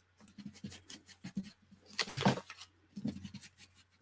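Ink sponge rubbed and dabbed along paper edges to apply distress ink: a run of short, irregular scratchy strokes, the loudest swipe about two seconds in.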